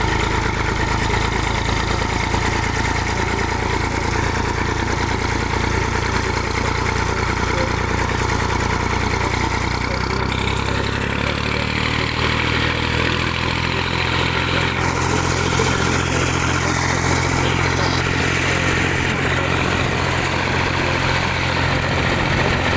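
Tractor engine running steadily, heard from on board while riding, with a shift in the engine note about halfway through.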